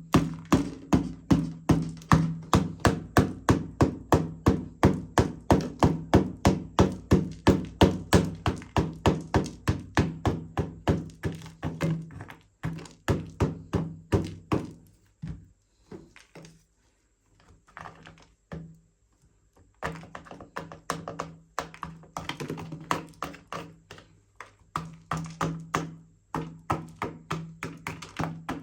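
Rapid hollow plastic thunks, about four a second, from a toy R/C car remote controller being handled and worked. They thin to a few scattered knocks about halfway through, then pick up again.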